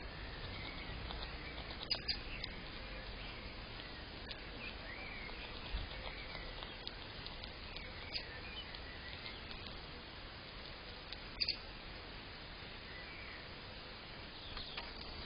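Faint bird chirps and a few sharp taps over a steady hiss, picked up by a small Blink Mini camera's microphone.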